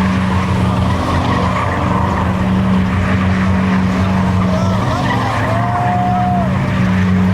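Car doing a burnout: the engine is held at high revs in a steady drone that drops out briefly twice, over the rough hiss of spinning tyres, with wavering tyre squeals in the middle.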